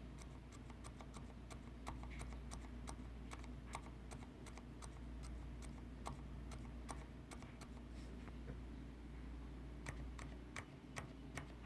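Leopold FC900R PD mechanical keyboard with silent red (Cherry MX Silent Red) switches being typed on: soft, irregular key clicks about two to three a second, with a few sharper strikes near the end.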